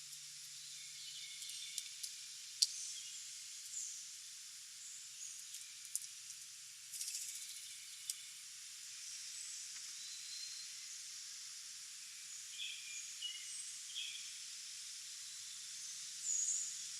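Outdoor ambience of a steady high hiss with scattered short, faint bird chirps and calls, and a few sharp clicks, the sharpest about two and a half seconds in.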